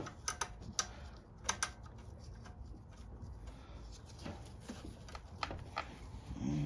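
Scattered sharp clicks and light taps of small metal parts and a hand tool being handled while a carburettor bolt is being fitted.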